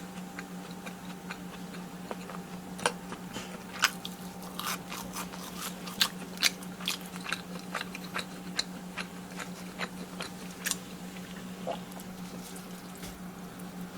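Close-miked eating of crisp fried cheese sticks: irregular crunching bites and chewing, over a steady low hum.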